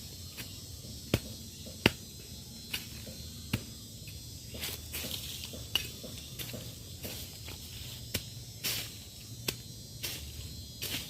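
Scattered sharp clicks and knocks, a handful over the span, with a few short rustles, over a faint steady background of night insects.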